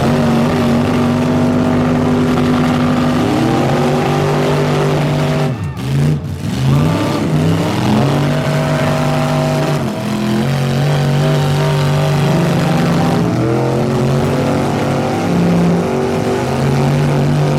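Big custom mud truck engine revving hard and held at high revs under the load of a truck tug of war, its pitch sagging and climbing again several times, with a short drop about six seconds in.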